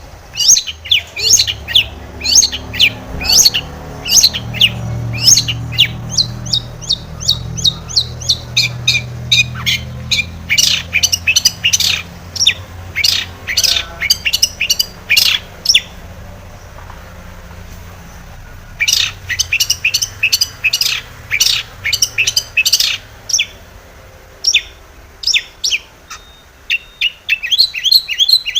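Long-tailed shrike (cendet) singing hard: rapid runs of sharp chirps and scratchy notes, several a second. It breaks off for about three seconds a little past halfway, then starts again.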